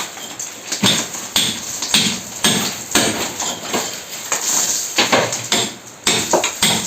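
Hammer blows knocking into a wall to make way for an air-conditioner installation: a dozen or so sharp strikes at an uneven pace, about one to two a second.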